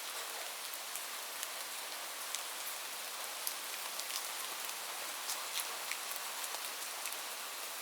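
Steady rain falling: an even hiss with many single drops landing in sharp ticks, scattered irregularly throughout.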